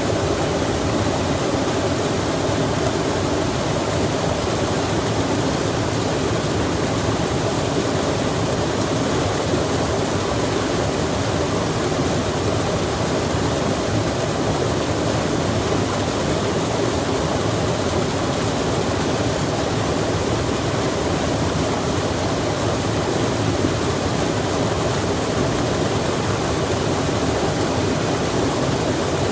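Flowing water rushing steadily, an even noise without breaks or changes.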